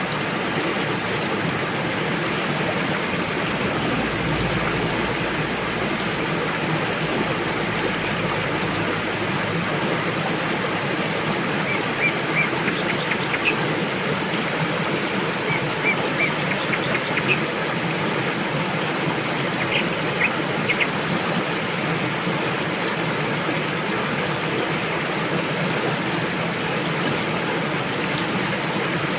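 A river rushing steadily over its bed. Three short runs of faint high ticks sound above the rush in the middle.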